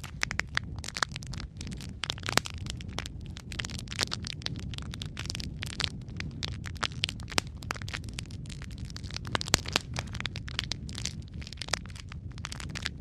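Wood fire crackling in a fireplace: many irregular sharp pops and snaps, several a second, over a steady low rush of burning.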